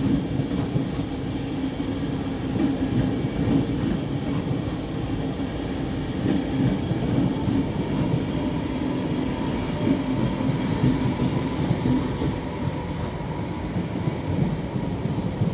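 A train running on rails, with a continuous heavy rumble and a steady high tone above it. A short burst of hiss comes about eleven seconds in.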